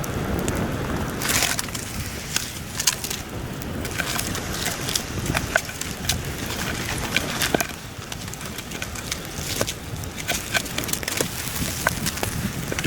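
Wood campfire crackling and popping in sharp irregular snaps over a steady low rush of heavy wind.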